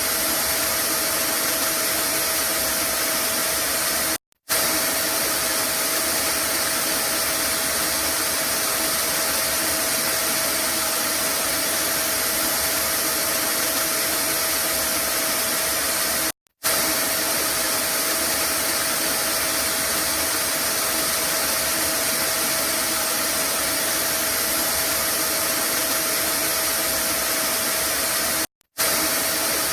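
Vacuum cleaner motor running steadily, an even rushing noise with a constant hum in it. It cuts out for a split second three times, about every twelve seconds, where the looped recording repeats.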